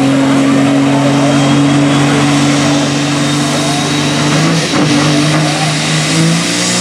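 Pulling semi's Caterpillar diesel engine running hard at a steady pitch. About four and a half seconds in, the pitch briefly breaks and settles at a new level.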